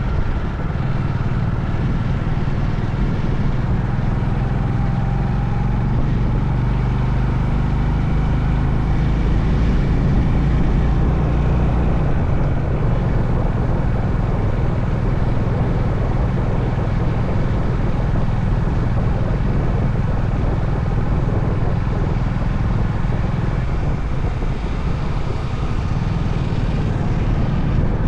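Honda CB350 Highness's single-cylinder engine running steadily while the motorcycle is ridden, with road and wind noise around it.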